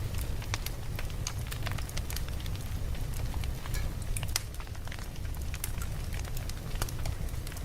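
Campfire crackling: irregular sharp pops and snaps, several a second, over a steady low rumble of the flames.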